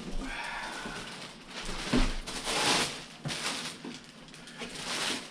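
Plastic bag and cardboard box rustling as a large RC truck is pulled out of its packaging, in several loud swishes. A brief high squeak comes in the first second.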